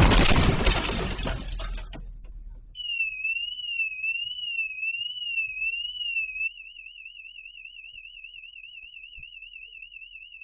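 The tail of a vehicle collision's crunching, breaking noise, fading out over about two seconds. Then a car alarm starts: a high electronic tone rising and falling slowly, switching about four seconds later to a fast warble.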